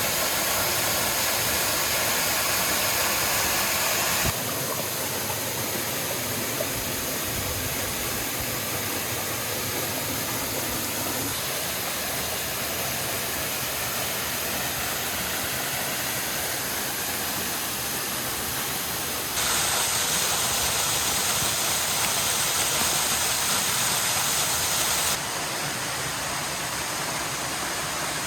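Steady rushing water of a waterfall or stream. It changes abruptly in level and tone about four seconds in, again about two-thirds of the way through, and once more near the end.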